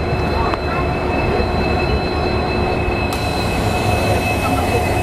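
Express passenger train running along the track: a steady rumble of the coach riding the rails, with a thin constant high tone over it. A brighter hiss joins about three seconds in.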